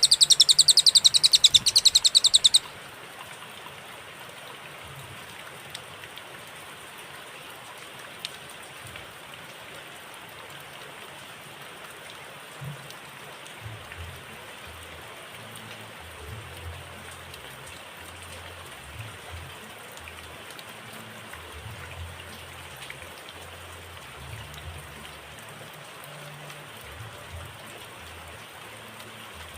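Cililin songbird giving a rapid, high-pitched trill that cuts off abruptly after about two and a half seconds, followed by a long pause of steady rain-like hiss.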